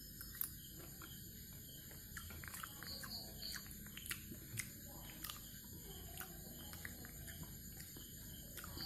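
A person chewing a mouthful of masala-marinated fish: faint, irregular clicks and smacks of the mouth.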